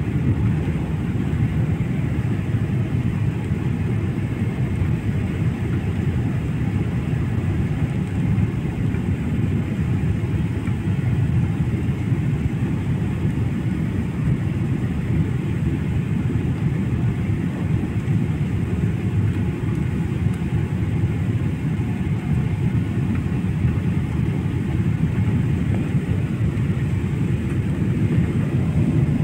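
Steady, low rumbling noise of a jet airliner in flight, heard from inside the cabin.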